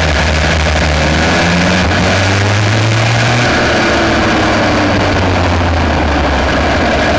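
Aixro Wankel rotary kart engine at racing speed: its pitch climbs for about three seconds, drops sharply about halfway through as the throttle comes off for a corner, then climbs again slowly, with wind and track noise underneath.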